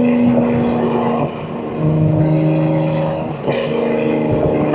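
BMW M2 G87's S58 twin-turbo straight-six running through catless downpipes and an equal-length mid pipe, holding a steady note whose pitch changes twice, with short dips in level, as gears change.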